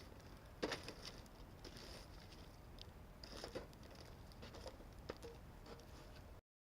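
Campfire crackling faintly, with scattered irregular pops and snaps, the sharpest a little under a second in; the sound cuts off abruptly near the end.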